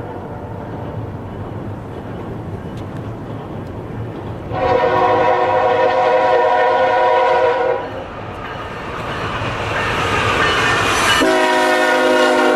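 Air horn of a CN freight train's lead GE locomotive: one long chord blast about five seconds in, then the train's rumble grows louder, and a second long blast near the end sounds lower in pitch.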